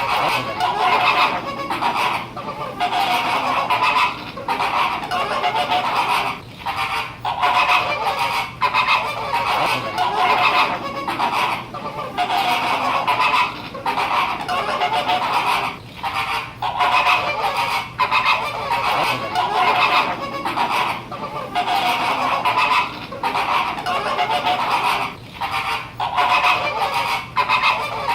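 A flock of flamingos honking, many calls overlapping, with brief lulls every second or two.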